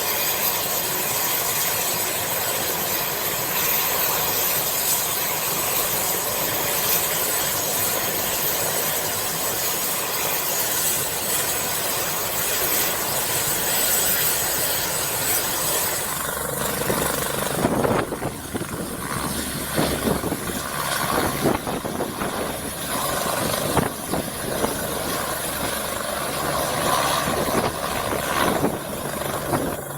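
Eurocopter BK117-C1 twin-turbine helicopter running, a steady turbine whine over rotor noise. A little over halfway through, the sound turns gusty and uneven as rotor wash buffets the microphone.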